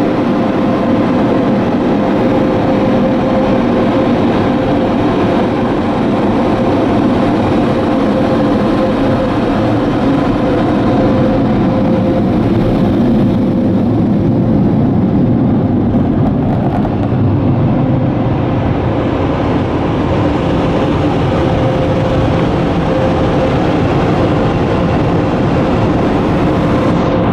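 The blowers of a Washworld High Velocity car wash's built-in dryers, running loud and steady: a continuous rush of air with a steady whine.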